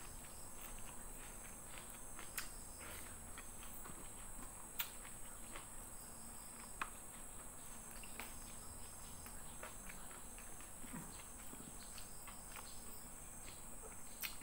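Faint eating sounds from someone eating by hand: scattered soft clicks and smacks of chewing and lips, a few sharper ones. Under them is a steady faint high-pitched whine.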